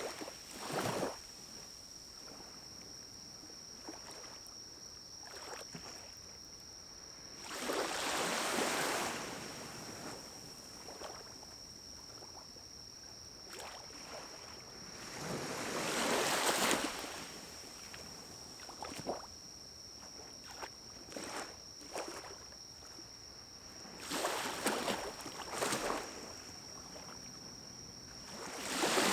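Pinecones burning in a small wood-burning camp stove, with sparse sharp crackles and pops over a steady hiss. Four louder whooshes of one to two seconds each come roughly every eight seconds.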